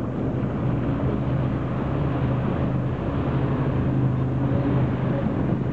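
Motorboat engine running steadily under way, a constant low drone with water and wind noise over it.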